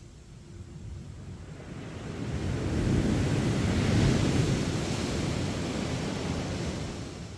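Sea waves breaking on a beach: the surf swells from about two seconds in, is loudest midway, and eases off as the wash recedes near the end.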